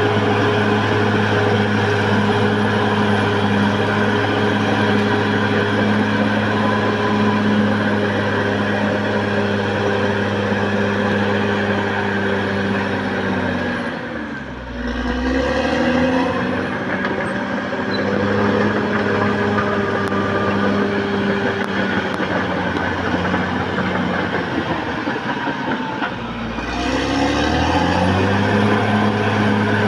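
Caterpillar D6R XL bulldozer's diesel engine running hard at steady high revs. Its pitch drops briefly about halfway through and again near the end, each time climbing back up.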